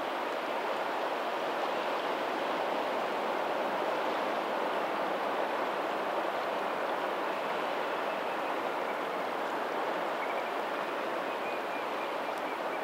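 Steady rush of water at a lagoon mouth: the tidal outflow running over a pebbly shoreline, with faint ocean surf mixed in.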